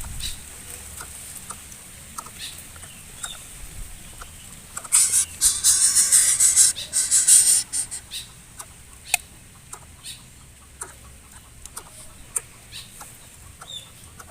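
A bird giving a loud, harsh, raspy call lasting about two and a half seconds midway, amid scattered light clicks.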